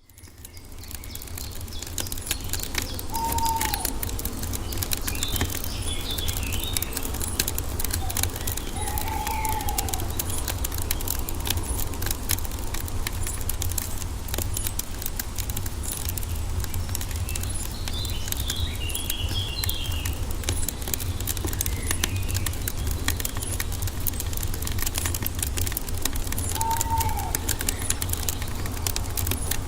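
Wood fire crackling steadily with frequent sharp pops over a low rumble, fading in at the start. Birds call now and then: a few short arching whistles and two brief bursts of high chirps.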